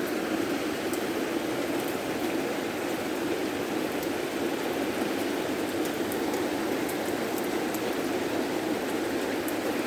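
Torrential rain pouring down steadily, a dense even hiss with scattered small drip ticks.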